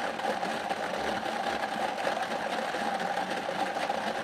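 Motorized prize-draw machine running with a steady mechanical whir after its button is pressed, dying away right at the end.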